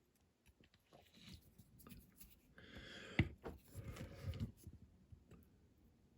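Small handling noises on a workbench: light rustling and scraping with scattered clicks. They grow busier in the middle, with one sharp click about three seconds in.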